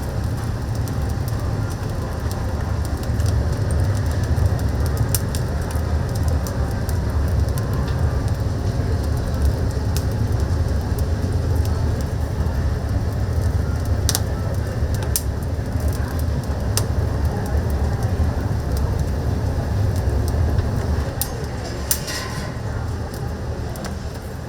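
Oak firewood burning in a chicken-roasting oven: a steady low rumble with scattered sharp crackles and pops.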